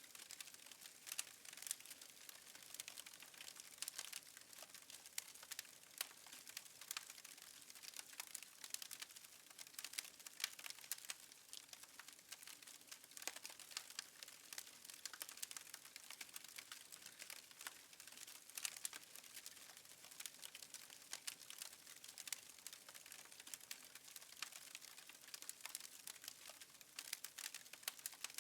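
Faint crackling of a wood fire in a fireplace: irregular sharp pops and snaps over a soft hiss.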